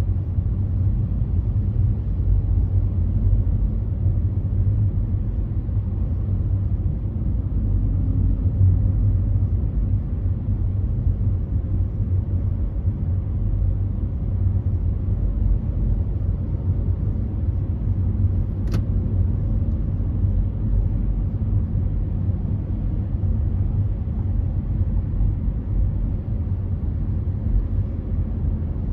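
Car driving at freeway speed, a steady low rumble of road and engine noise. A single faint tick sounds about nineteen seconds in.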